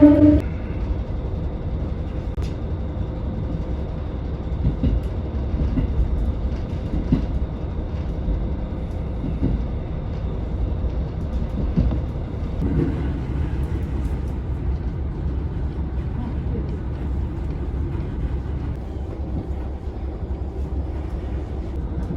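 Donan Isaribi Railway KiHa 40 diesel railcar running along the line: a steady low rumble of its diesel engine and wheels on the rails, with scattered clicks and a shift in tone about halfway through. A loud pitched note cuts off right at the start.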